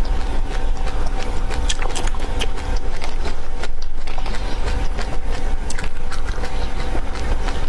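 Dry seeds being chewed and crunched close to the microphone: many sharp, irregular crackles over a steady low rumble and hum.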